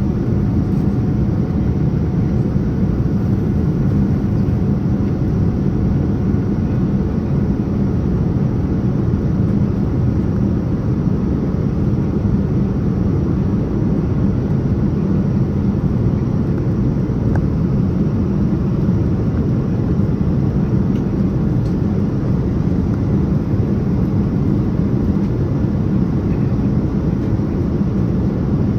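Steady cabin noise of a Boeing 787-9 Dreamliner in flight: a constant low rush of airflow and engine noise that does not change.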